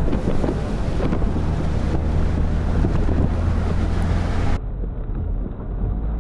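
Strong wind buffeting the microphone: a loud, steady low rumble of gusts. About four and a half seconds in, the sound cuts abruptly to a duller, muffled low rumble.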